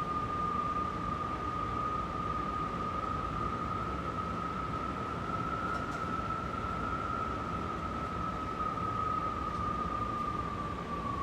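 Strong wind howling: a steady rushing hiss under one whistling tone that rises a little about halfway through, then sinks slowly toward the end.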